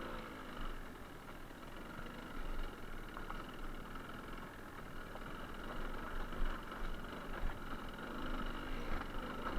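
Suzuki TS125R's two-stroke single-cylinder engine running at low revs, under a steady rushing noise.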